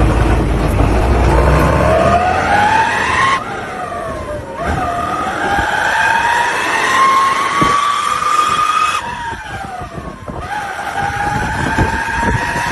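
Bus accelerating hard with a whine that climbs in pitch, breaking off twice, about three and a half and nine seconds in, as the driver changes gear, then climbing again.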